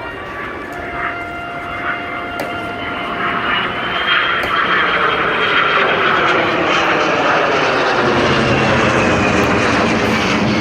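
Military jet flying past: engine noise builds steadily, with a high whine that rises in pitch about three to four seconds in and then slowly falls.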